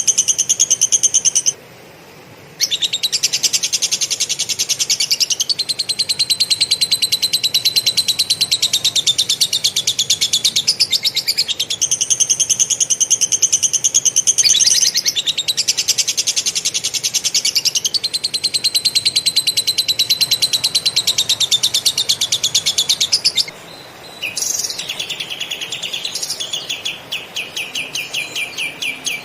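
Kapas tembak ('katem') songbird singing long, very rapid rolling trills in lovebird style, with two short breaks. Near the end it switches to a slower series of about four or five notes a second.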